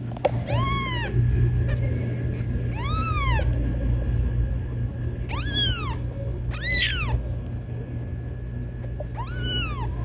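A kitten meowing five times, high-pitched calls each under a second that rise and fall in pitch: the calls a kitten makes to bring its mother.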